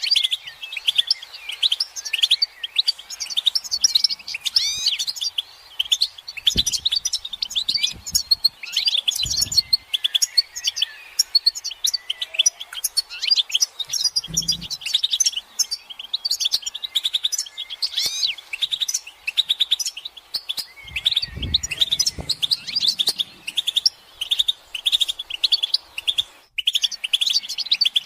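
European goldfinches twittering in a fast, unbroken run of chirps and trills: the excited chattering and mating calls used to stir a silent male goldfinch into song. A few low thumps come in between.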